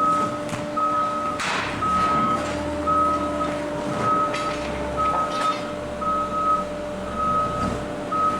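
A back-up alarm beeping evenly, about one half-second beep each second, over the steady hum of running machinery, with a few knocks.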